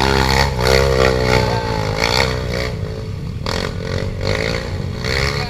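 Dirt bike engine revving hard, its pitch rising and falling as the throttle is worked on a hill climb; it eases off somewhat about halfway through.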